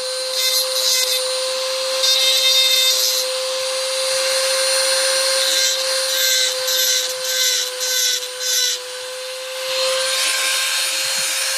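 Small high-speed rotary tool running with a steady whine, its bit grinding into a die-cast zinc-alloy (Zamak) toy car body in a series of short cutting passes.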